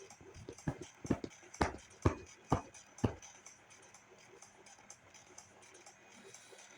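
A run of about seven sharp thumps roughly half a second apart, over faint background noise.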